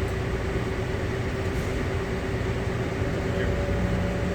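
Bombardier CX-100 automated people mover car running along its guideway, heard from inside the car: a steady rumble under a steady motor whine that steps up in pitch about three and a half seconds in.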